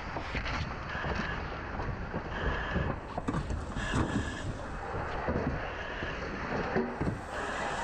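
Wind buffeting the microphone over a steady low rumble, with scattered knocks and clatter of debris being worked.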